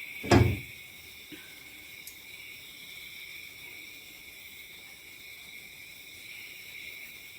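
A single loud clunk about half a second in and a faint tap a second later in the kitchen, over a steady high-pitched hiss.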